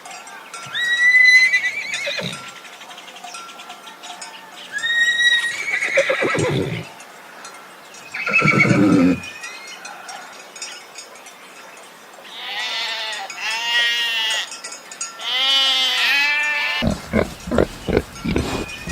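A series of farm animal calls: five separate pitched cries, several bending up and down in pitch, followed near the end by a run of rapid low grunts.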